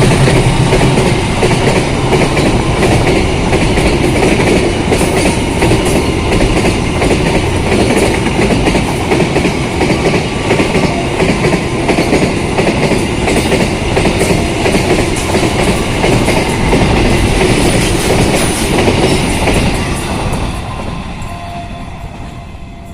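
A train passing at speed close by: a loud, steady rush of carriage wheels on the rails with rapid clicking over the rail joints, fading away over the last few seconds as it moves off.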